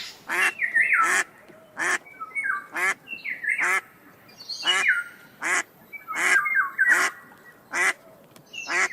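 Domestic duck quacking: a series of about a dozen loud quacks in quick succession.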